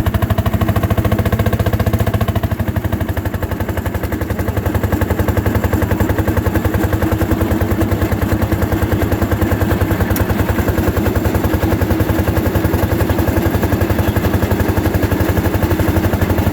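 Fairmont M-19 railroad motor car's single-cylinder two-stroke engine running under load, a rapid, even firing beat as it pulls up a grade.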